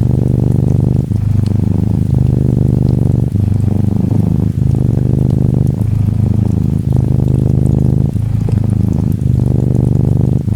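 Close-up cat purring, a Norwegian Forest Cat kitten, going in a steady cycle that breaks briefly about once a second with each breath in and out. Faint gentle rain patters behind it.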